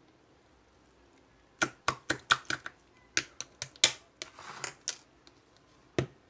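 Marbled slime being pressed and poked by hand, giving a quick run of sharp clicking pops with a brief squishy stretch in the middle, then one last pop near the end.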